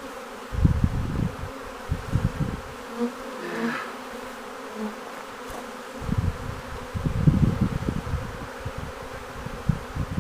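Honey bee swarm buzzing: the steady hum of many bees in the air. Irregular low rumbles hit the microphone, loudest in the last few seconds.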